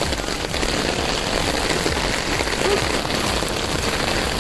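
Steady rain falling on a wet asphalt road, an even hiss of drops.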